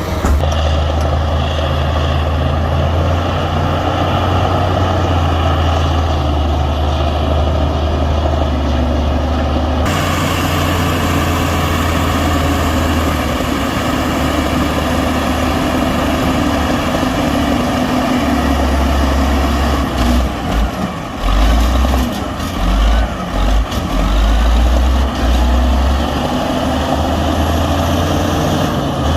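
Heavy diesel earthmoving machinery running, a steady low engine drone. The sound shifts abruptly about ten seconds in, and the low rumble turns uneven and choppy in the last third.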